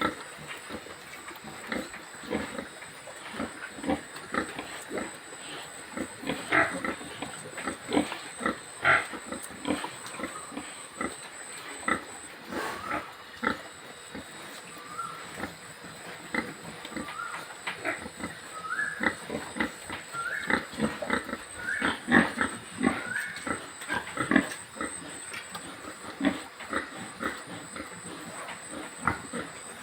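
Pigs grunting throughout in a dense, irregular chatter. From the middle on, short rising squeals break in among the grunts.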